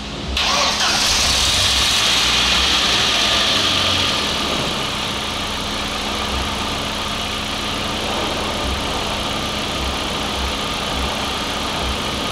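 Volkswagen Passat B5's 1.8-litre turbo four-cylinder engine starting and running at raised revs for the first few seconds, then settling to a steady idle. It runs evenly without misfiring on a newly fitted used ignition module that replaced a burnt-out one.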